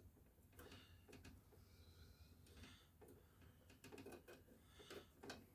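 Near silence broken by faint, scattered small clicks and taps, about half a dozen, as screws are started by hand into the heater box.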